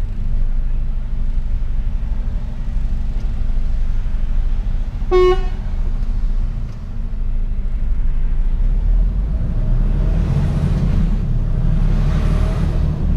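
Mercedes-Benz Actros truck's diesel engine running with a steady low drone, heard from inside the cab. About five seconds in, a vehicle horn gives one short toot, and near the end two swells of rushing noise come and go.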